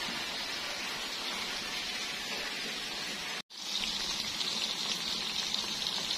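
Sizzling from food cooking in a wok of spicy chicken feet in sauce. The sound cuts out for a moment about three and a half seconds in. It comes back as a slightly louder, brighter, steady sizzle of tofu and tempeh deep-frying in oil in a pan.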